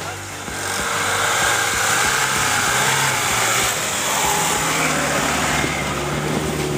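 A vehicle engine running under loud rushing noise, with a steadier low engine tone coming in about five seconds in.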